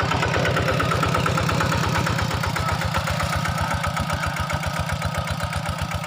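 An engine idling steadily, with a fast, even low chug of about nine beats a second.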